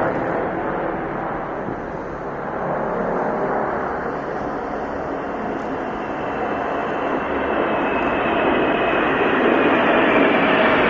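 Large military aircraft flying overhead: steady engine noise with faint whining tones that slide slowly down in pitch, growing louder toward the end as the aircraft comes closer.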